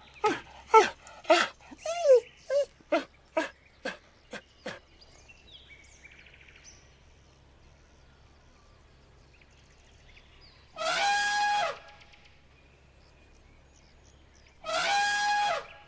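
A small terrier yipping and barking in a quick run of short calls, thinning out after about four seconds. Later come two loud, harsh elephant trumpets, each about a second long and held at one pitch, about four seconds apart.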